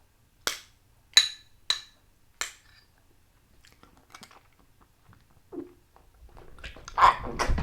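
A man tasting a revolting mix of food: four sharp clinks of a utensil on a dish, then faint chewing, and a loud throaty noise near the end as he reacts to the taste.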